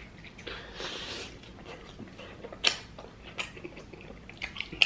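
Close-miked chewing of a mouthful of pizza: wet mouth smacks and clicks, the sharpest about two and a half seconds in and just before the end.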